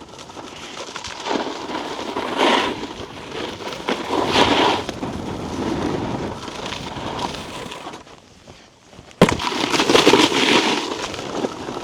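Snowboard edges scraping and chattering over icy, hard-packed snow while riding, swelling louder with each turn. After a short quieter stretch there is a sharp thud about nine seconds in, then loud scraping again.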